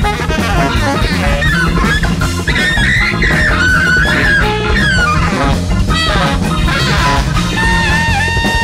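Large free-jazz big band playing live: drums and bass under a bending lead melody, with a long held note starting near the end.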